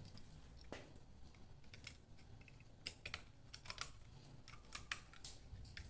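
Faint, irregular plastic clicks and taps from a hand working at the cap of a bottle of silicone protectant, struggling to get it open, with a small cluster of clicks about halfway through.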